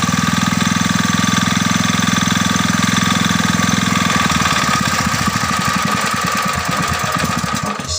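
Restored old diesel engine running with a fast, even knocking beat and a steady whine above it; about halfway through the low beat thins out and becomes less regular.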